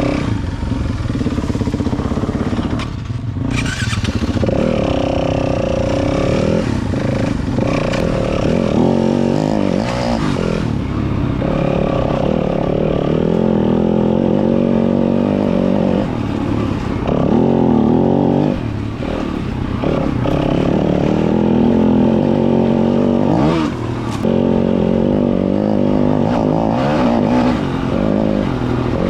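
Four-stroke dirt bike engine running hard on a trail ride. It revs up and eases off several times, its pitch climbing and dropping.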